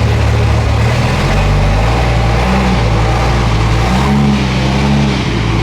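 Car engine running at low speed during slow maneuvering, with a steady low rumble. The engine note shifts a little about a second in and again near the end as light throttle is applied.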